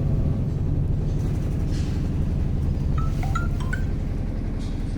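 LG WT16SSB washing machine running with a steady low hum after its drain pump was replaced, now steady with no loud vibration or squeal. A few short high chirps come about three seconds in.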